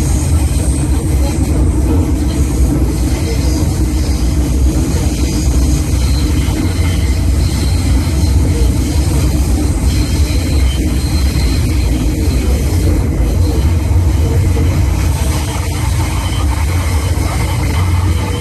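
MTR M-Train electric multiple unit running at speed, heard from inside the car: a steady, loud low rumble of wheels on track and running gear.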